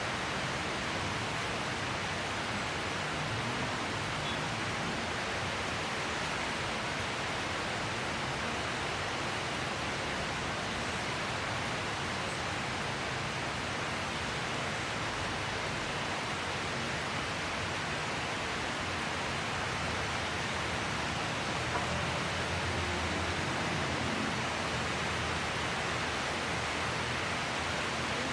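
Heavy tropical rain pouring down steadily, an even hiss with no let-up. A faint low rumble rises under it about three-quarters of the way through.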